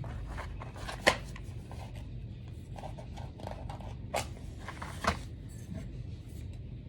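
Small handling sounds while getting a candle lit with matches: light rustling with three sharp scrapes or clicks, about a second in, at about four seconds and at about five seconds.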